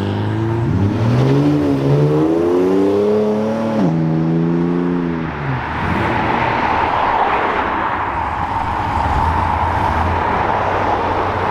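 A classic car's engine accelerating hard through the gears, its note climbing and dropping at upshifts about a second and a half and four seconds in. It then falls away as the car leaves. Steady engine and road noise from other vehicles follows.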